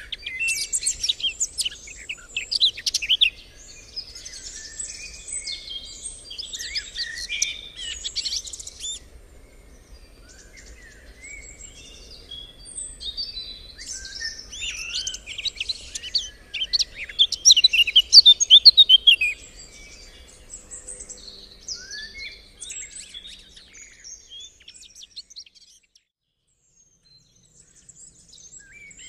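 Several songbirds singing and chirping over one another, quick overlapping trills and whistles in a dense chorus that thins out after about twenty seconds, with a brief lull near the end.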